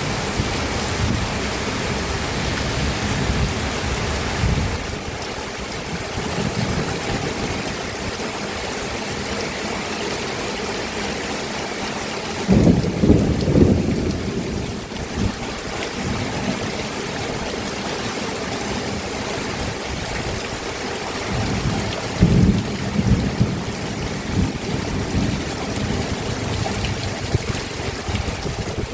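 Steady rain falling, with low rumbles of thunder twice: one a little before halfway and another about three-quarters of the way through.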